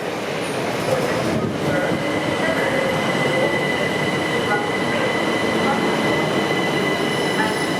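Train running along the platform, a steady rumble with a thin high-pitched squeal from the wheels that comes in about a second and a half in and holds.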